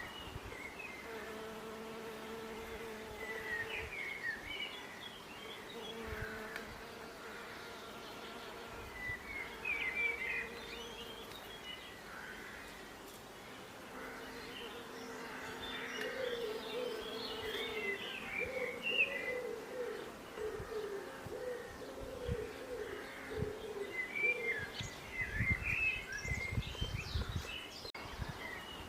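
Bees buzzing steadily, their hum wavering in pitch through the middle, with birds chirping in several short spells of song. A few low thuds come near the end.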